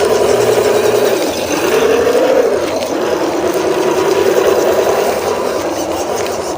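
Small electric motor and gearbox of a hobby RC off-road truck whining as it is driven, the pitch dropping about a second in, rising and falling again, then holding steady.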